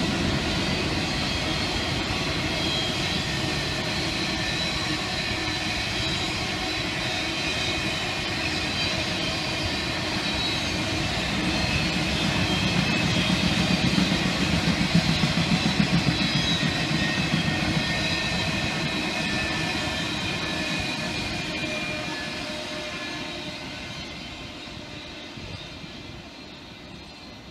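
Freight train of autorack cars rolling past: a steady rumble of wheels on rail with high ringing tones over it. It swells briefly, then fades away over the last several seconds as the end of the train draws off.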